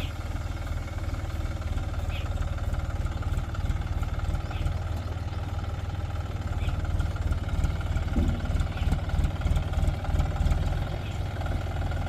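John Deere 5045 tractor's three-cylinder diesel engine running steadily with an even low rumble.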